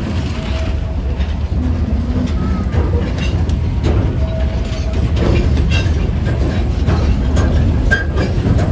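Cedar Point and Lake Erie Railroad steam train running along the track: a steady low rumble with scattered wheel clicks.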